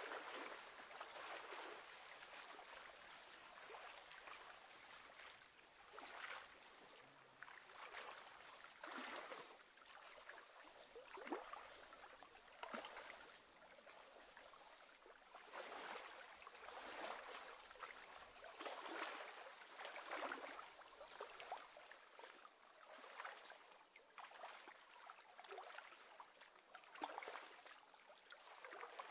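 Faint small waves lapping and splashing on choppy lake water, in irregular washes about every second or two.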